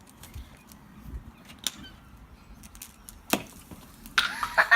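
A small vinegar-and-baking-soda rocket going off: a sharp bang about three seconds in, followed near the end by a louder burst of noise lasting about a second.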